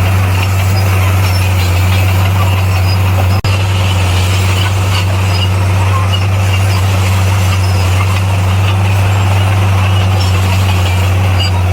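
Bulldozer's diesel engine running steadily under load: a constant low drone with a dense mechanical rattle on top. The sound cuts out for an instant about a third of the way in, then carries on unchanged.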